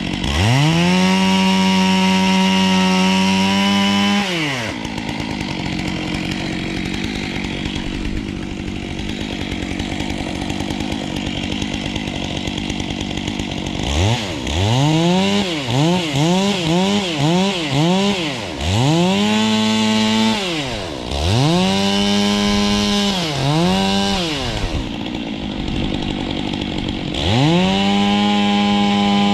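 Two-stroke chainsaw revved to full throttle for a few seconds, then dropping back to idle. It gives a quick run of about five short throttle blips, then a few longer revs, and goes back up to a steady full-throttle pitch near the end.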